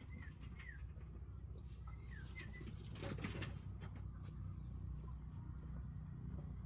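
Pet myna bird giving a few short, falling chirps in the first couple of seconds, with a brief rustle about three seconds in.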